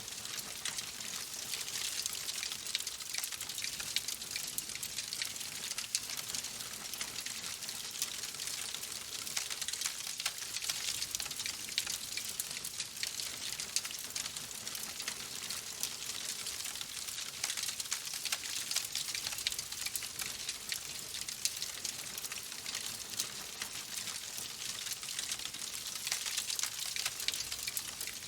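Steady rain, a dense even hiss of falling drops with fine ticks of individual drops throughout.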